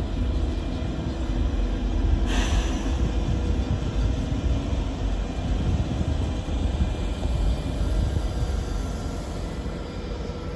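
Ouigo double-deck high-speed train pulling out of the station, a steady low rumble as it moves off. A brief hiss about two seconds in.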